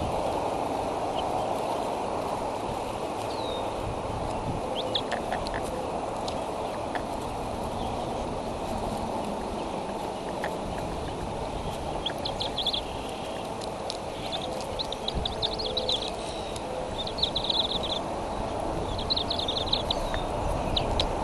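Steady rushing outdoor background noise, with short bursts of rapid high-pitched bird chirps coming several times in the second half.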